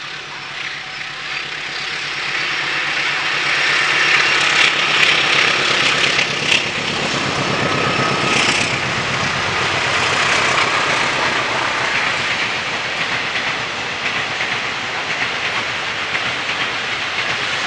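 A train passing close by on the line: the rumble and rail clatter swell over the first few seconds, then stay loud and steady, with a few sharp clicks from the wheels near the middle.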